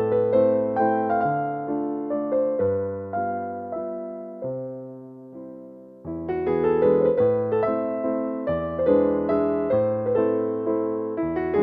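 Gentle, slow piano music. A phrase of notes and chords thins out and fades, then a fuller passage starts about halfway through.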